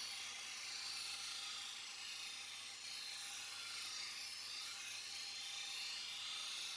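Knife blade being sharpened, metal grinding steadily against an abrasive with a continuous high hiss that wavers slowly.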